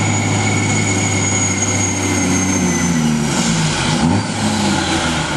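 Semi truck's diesel engine working hard under load pulling the sled, a steady drone with a high whine over it. About three seconds in the engine note falls and wavers.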